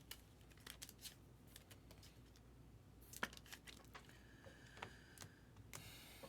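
Faint scattered clicks and light rustling of trading cards and their packaging being handled.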